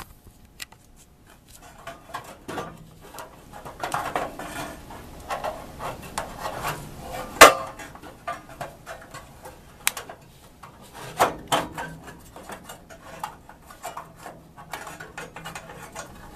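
Metal clinking, knocking and scraping as the gas water heater's access doors and parts are handled, with one sharp knock about seven seconds in and a cluster of clanks a few seconds later.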